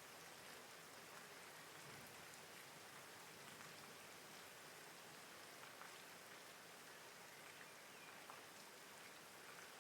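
Steady soft rain: an even hiss with faint, scattered ticks of individual drops.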